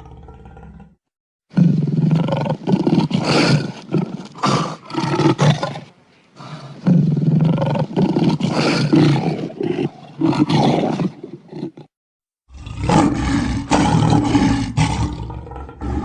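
Lion roaring: a run of loud, rough roars and grunts in three stretches, broken twice by sudden short silences.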